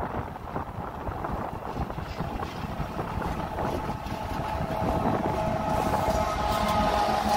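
Wind buffeting the microphone over the low rumble of an approaching Union Pacific train coming down the grade, growing steadily louder. About six seconds in, a steady whine of several high tones joins the rumble.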